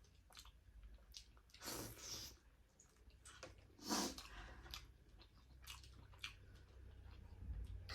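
A person chewing and eating food, with soft wet mouth clicks and two louder noisy bursts about two and four seconds in.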